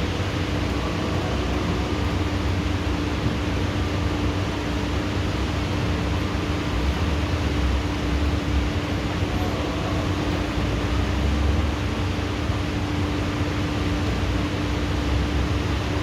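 Rain pouring steadily during a tropical thunderstorm: a continuous even hiss with a steady low hum underneath.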